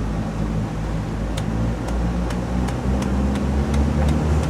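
A 38-foot motor yacht's engine running under way, a steady low drone that grows a little louder in the second half. Light sharp ticks come about twice a second from around a second and a half in.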